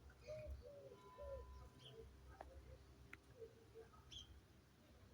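A parrot making soft, low, faint calls: a quick run of short arched notes in the first second and a half, then softer, sparser ones with a few higher chirps and two sharp clicks.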